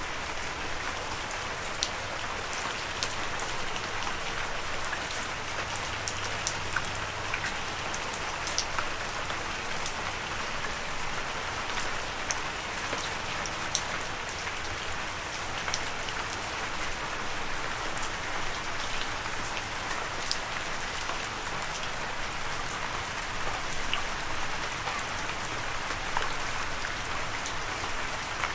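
Steady rain falling, an even hiss scattered with many sharp little drop ticks.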